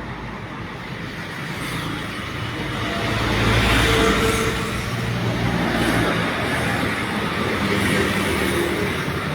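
A motor vehicle engine running with road noise, swelling louder about three seconds in and easing off after about six.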